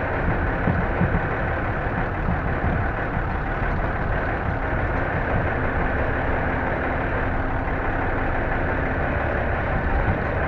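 Cab noise of an M923A1 5-ton 6x6 military truck under way: its Cummins inline-six diesel running steadily, with drivetrain and road noise, and a faint steady hum joining for a few seconds in the middle.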